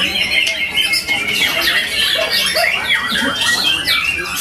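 White-rumped shama (murai batu) singing a dense, unbroken run of quick rising and falling chirps and trills, in the shrike-imitating 'cendet' style.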